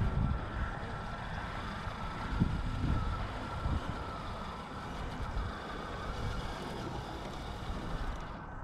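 Redcat Scout II Gen8 V2 1/10-scale electric crawler driving over rough dirt: a steady high whine from its motor and gearing that fades after about four seconds, over a low rumble with a few knocks from the tyres and chassis on the ground.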